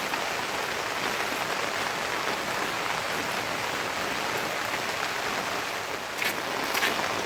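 Steady rain falling, with a few sharp taps near the end.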